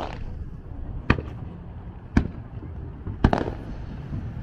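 Aerial fireworks shells of a Japanese-style fireworks display bursting: three sharp bangs about a second apart over a steady low rumble.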